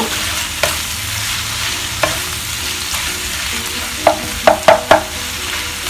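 Pieces of raw pork fat sizzling steadily in a hot dry wok as they start to render into lard, while a wooden spatula stirs them, scraping and knocking against the pan. A quick run of sharper knocks comes about four seconds in.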